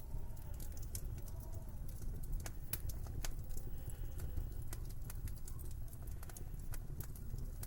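Wood fire crackling in a fireplace, with irregular sharp pops and snaps over a steady low rumble. Faint wind whistles in the background, rising and falling in pitch.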